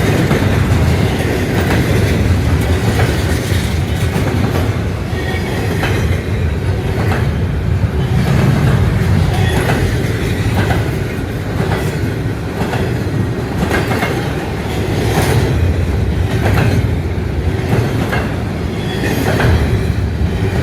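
Intermodal freight train's container cars rolling past close by: a steady rumble with the wheels clacking over rail joints again and again.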